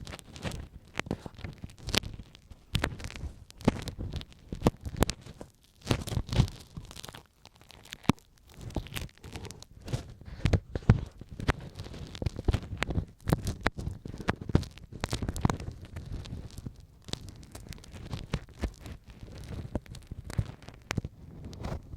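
Ear pick scratching and scraping right against the microphone, an irregular run of sharp clicks over dull low rubbing.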